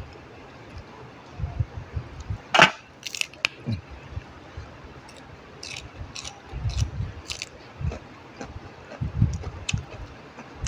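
Close-up chewing and crunching of raw vegetables: soft, repeated chewing sounds in clusters, with a loud crisp snap about two and a half seconds in and several sharper clicks and smacks after it.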